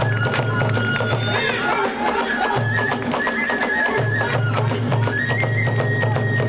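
Kagura hayashi band playing: a bamboo flute holding long high notes with small pitch steps over fast, continuous clashing of small hand cymbals and a steady drum, which drops out briefly twice in the middle.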